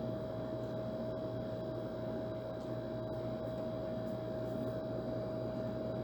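Old air conditioner running steadily: an even rush of air with a low hum and one clear mid-pitched tone.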